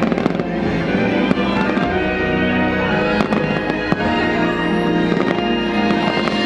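Aerial fireworks bursting with several sharp bangs and crackles, over loud show music with held notes.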